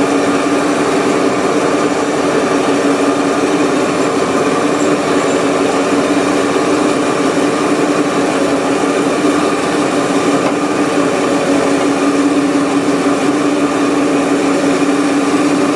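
A 1500 lb electric chain hoist's motor runs steadily under load as it winds up a set of heavy tractor tire chains, giving an even hum with one strong steady tone. It stops abruptly at the very end.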